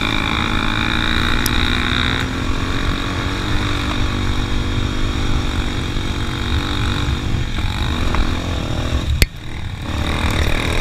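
Motorcycle engine running at steady revs while riding, with a low rumble under it. A single sharp click about nine seconds in, followed by a brief dip in level.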